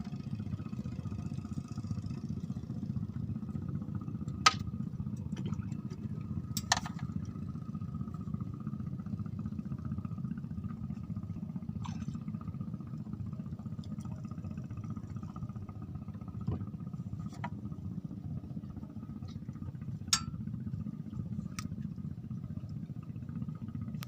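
An engine running steadily with a low hum, broken by a few sharp clicks or knocks.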